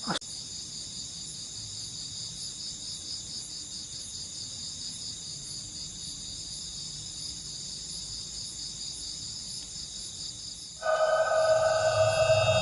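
Night insects, crickets, trilling steadily in high, finely pulsing bands, with a short click right at the start. About eleven seconds in, a sustained eerie music drone of several held tones comes in over them, louder than the insects.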